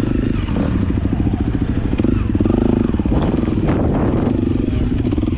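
A vehicle engine running steadily, a fast, even pulsing drone whose pitch drifts a little up and down.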